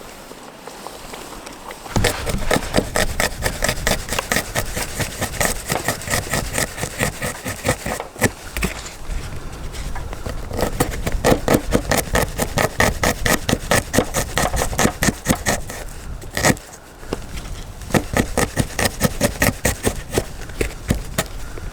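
Rapid, even scraping strokes of a tool working wood, several a second, starting about two seconds in and stopping briefly twice.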